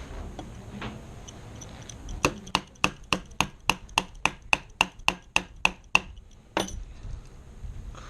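Rapid, evenly spaced metallic taps or clicks, about fourteen at roughly three and a half a second, then one more after a short pause. They come from metal parts of an AR-15 rifle being worked by hand while it is cleaned.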